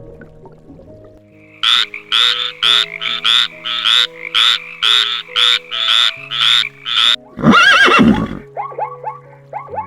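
Animal calls over background music. First comes a run of about fifteen loud, raspy pulses, close to three a second. Then one loud call with a wavering pitch lasting about a second, followed by a few short, softer calls near the end.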